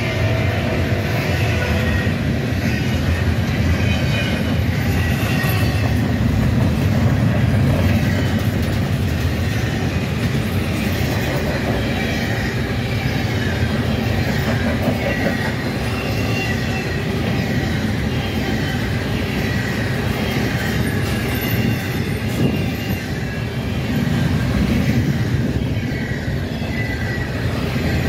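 Double-stack intermodal container train rolling past close by: a steady heavy rumble of steel wheels on the rails, with thin high squeals from the wheels coming and going.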